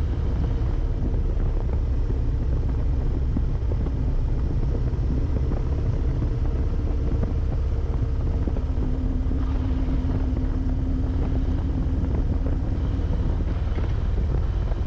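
Harley-Davidson Road Glide Limited V-twin running steadily while riding at road speed, a constant low drone with road and wind noise, as picked up by a helmet intercom microphone.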